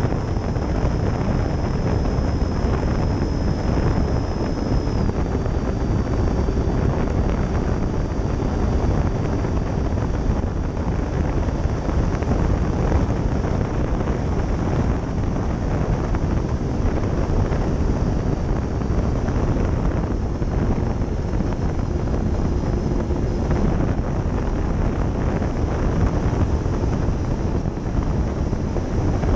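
Onboard sound of an RC Dynam Me 262's twin 70 mm 12-bladed electric ducted fans in steady flight, heard under heavy wind rush on the microphone. A thin high fan whine runs through it and drops slightly in pitch about five seconds in.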